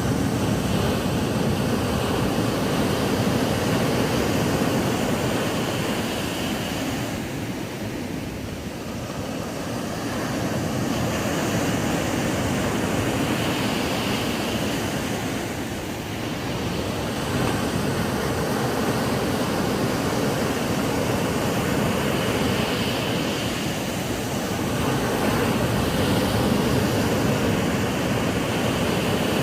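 Ocean waves breaking on a sandy beach: a continuous wash of surf that swells and eases every few seconds.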